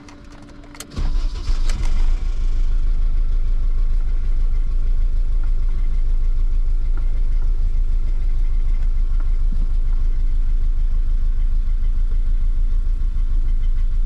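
BMW E30 M3's S14 four-cylinder engine cranked and catching about a second in, then idling steadily with a low, uneven rumble. The car is in for a reported misfire, and a rattle at idle is taken for the catalytic converter.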